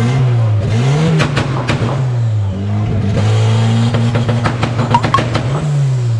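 Car engine running and being revved a few times, the revs rising and falling back.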